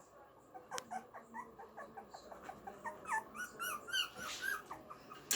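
Young puppies whimpering: a quick run of short, high-pitched squeaks, one after another, starting about a second in.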